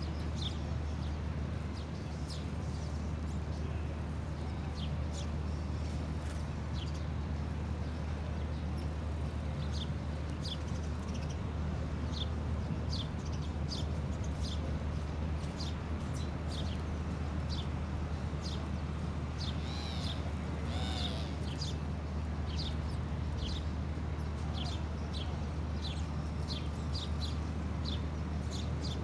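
A bird chirping over and over, short high notes about once or twice a second, with one longer wavering call about two-thirds of the way through, over a steady low hum.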